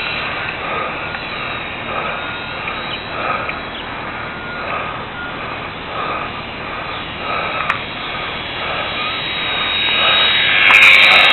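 Whine of a micro RC plane's small electric motor and propeller in flight. It rises and falls as the plane moves around and is loudest near the end as it passes close.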